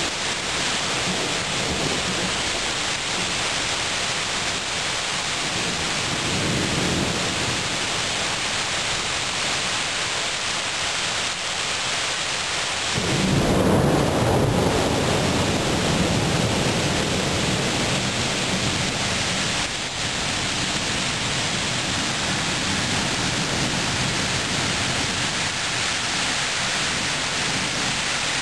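Steady heavy rain with thunder: a loud low rumble breaks in suddenly about halfway through and rolls on for several seconds, with a fainter rumble earlier.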